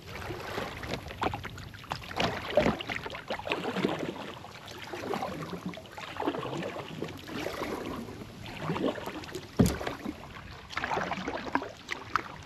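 Kayak paddle strokes dipping and splashing in the water, swelling and fading about every two seconds. A single sharp knock stands out a little before the end.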